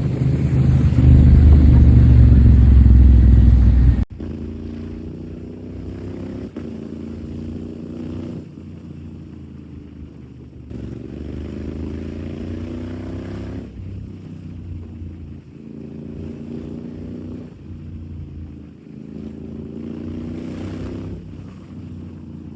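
Honda Africa Twin 1100's parallel-twin engine through its Akrapovic exhaust, at first under heavy low wind rumble, then accelerating repeatedly: the engine note climbs in pitch and drops back at each upshift, four or five times.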